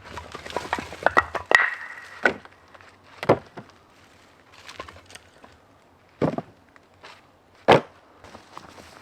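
Firewood logs being handled: a clatter of wooden knocks with a brief ringing note in the first two seconds, then single sharp wooden knocks about three, six and seven and a half seconds in.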